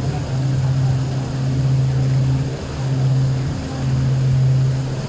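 A boat's engine running steadily, a low hum that swells and dips in level every second or so.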